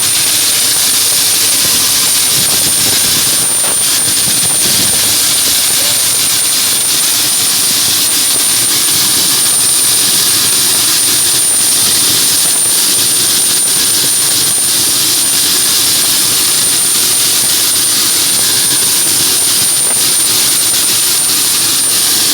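Ilyushin Il-76 cargo plane's jet engines running close by: a loud, steady rush with a high, steady whine.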